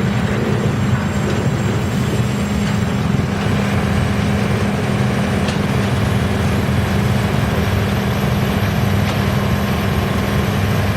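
YGX2113 drum wood chipper running steadily, a loud constant machine hum with a strong low tone.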